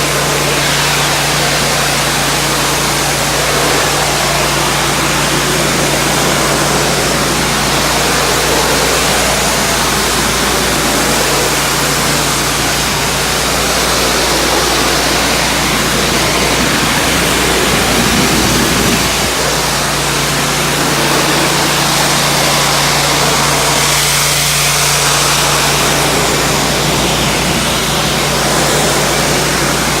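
Pressure washer running steadily with a loud hiss of water spraying from a surface cleaner onto concrete, over the steady hum of the washer's motor, which wavers briefly about halfway through.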